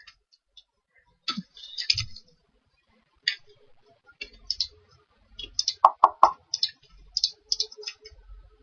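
Computer mouse clicking at irregular intervals as software is operated, with a short cluster of louder knocks about six seconds in.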